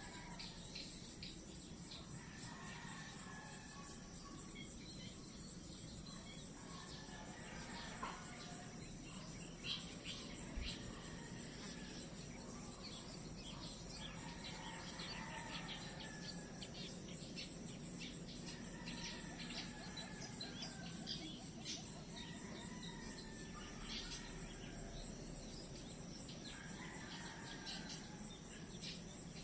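Nature ambience: a steady high-pitched insect drone, with many short chirps and bird calls sounding over it through the whole stretch.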